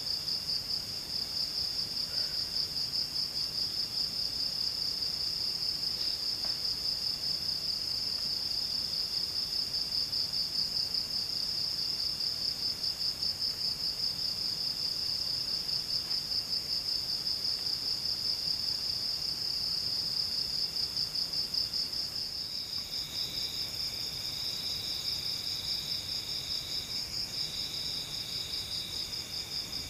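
Insects calling in forest: a steady, high-pitched, pulsing trill. A second, fainter insect trills in spells of a second or two. About 23 s in, a louder insect buzz starts in separate bursts alongside it.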